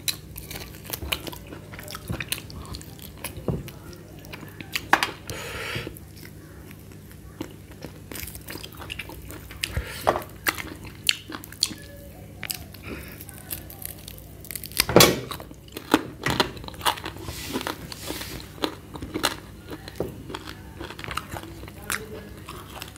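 A man biting and chewing roasted goat ribs held in his hands, gnawing meat off the bone, with irregular crunches and clicks. The loudest bite comes about fifteen seconds in.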